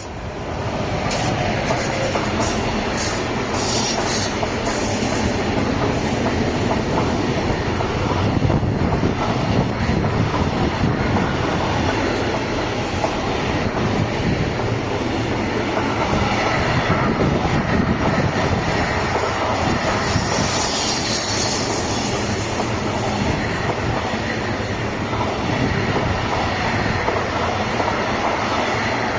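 A long train passing close by on the track, its wheels clattering steadily over the rails; the noise comes up suddenly at the start and holds loud and even throughout.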